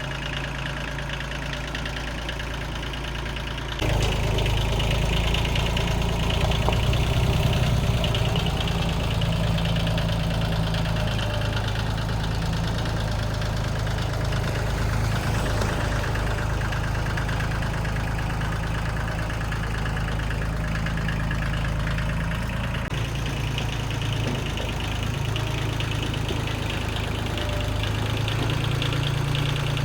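An engine running steadily at idle, becoming louder about four seconds in.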